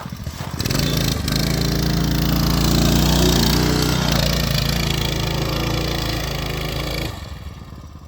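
Coleman B200 mini bike's small engine, driven through a torque converter, running hard under load up a steep hill, its pitch wavering slightly. The engine sound drops away sharply about seven seconds in.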